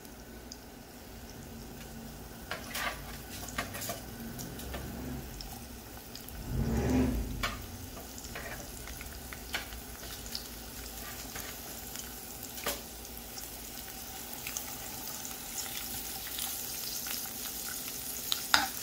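Sliced bell peppers sizzling in hot olive oil in a skillet, with scattered clicks and scrapes of a plastic slotted spatula as they are stirred. A louder dull thump comes about six to seven seconds in.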